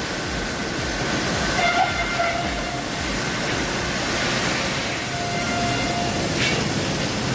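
Sawmill machinery handling a large log, running with a steady rumble and hiss. Brief squealing tones come in about two seconds in and again later, with a short knock near the end.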